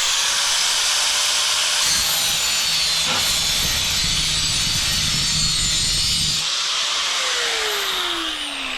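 Angle grinder with a diamond blade cutting porcelain tile, a steady loud grinding. About six and a half seconds in the load eases, and the grinder's note falls in pitch near the end.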